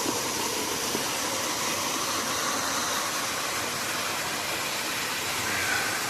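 Steady rush of running creek water, an even hiss with no rhythm or pitch.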